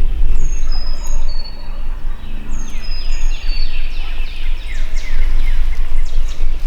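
Wild turkey gobbling, a quick run of falling notes, among high chirping songbird calls in spring woods.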